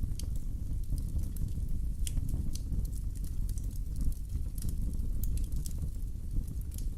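Wood fire in a fireplace crackling: irregular sharp pops and snaps, several a second, over a steady low rumble of the burning logs.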